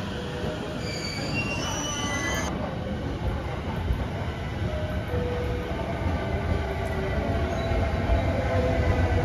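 A 15-car JR East E217 series electric train pulling into the platform, its rumble growing louder as it nears. A brief run of high stepped tones comes about a second in.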